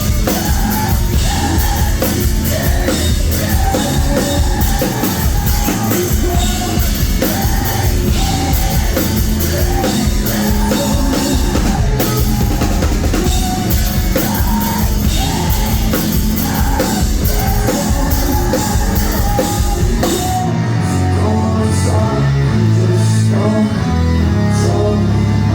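Live rock band playing loud, heard through a phone's microphone: drums, guitars and singing. About twenty seconds in, the drums and cymbals drop out and only lower bass and guitar notes carry on.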